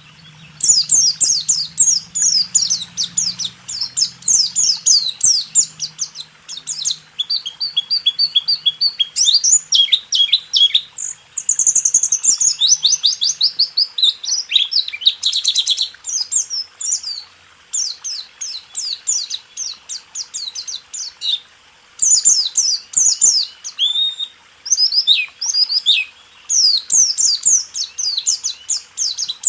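Pleci (white-eye) singing the fast trilled 'roll tembak' song: long rapid runs of high, downward-sweeping chirps, broken by short pauses.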